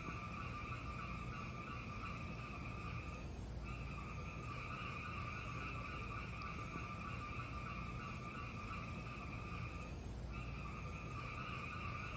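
Fireplace fire burning with a low steady roar and a steady high-pitched hiss over it. The hiss cuts out briefly twice.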